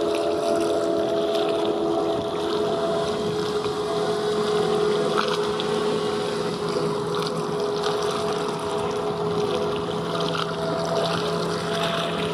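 A vessel's engine droning steadily: several constant hum tones over a wash of noise, with a lower hum joining after about two seconds.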